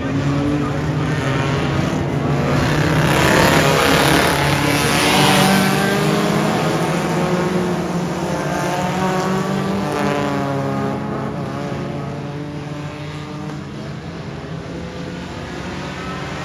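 Several race car engines running laps on a dirt oval. The sound swells as the cars pass close about three to five seconds in and again around ten seconds in, then eases off.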